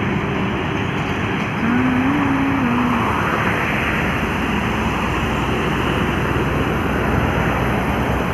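Heavy trucks running on a highway: a steady, loud rush of engine and road noise. A brief low tone rises slightly and falls back about two seconds in.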